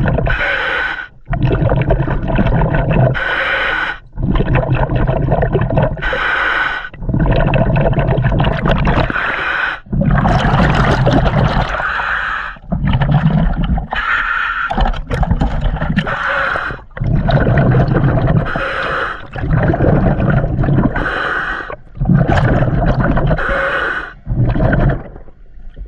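Scuba diver breathing through a regulator underwater: alternating hissing inhalations and bubbling exhalations in a steady rhythm, each breath lasting about two to three seconds.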